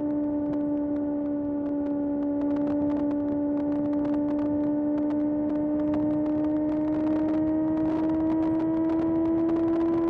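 Kawasaki ZX-6R's 636 cc inline-four running at high revs under steady throttle, its high-pitched note climbing slowly as the bike gathers speed.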